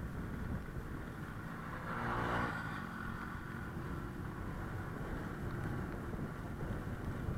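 Honda Click 125i scooter riding in traffic: engine running under a steady rumble with wind on the microphone. About two seconds in, a louder engine sound swells and fades.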